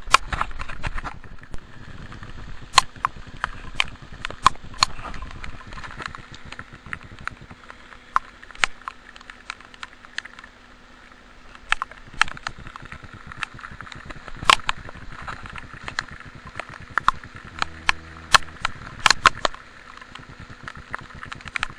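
Raindrops tapping irregularly on a waterproof camera housing, sharp ticks every second or so over a steady hiss of rain.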